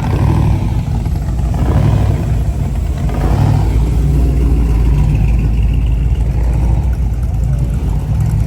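A car engine running with a loud, low, steady rumble that swells briefly a couple of times.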